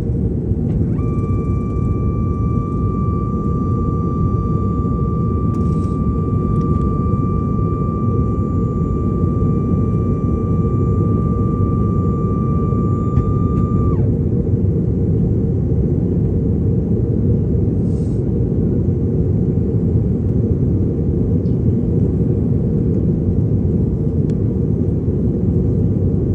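Jet airliner taking off, heard from inside the cabin: a loud, steady low rumble of engines and airflow. A steady high whine sounds over it from about a second in and cuts off at about fourteen seconds.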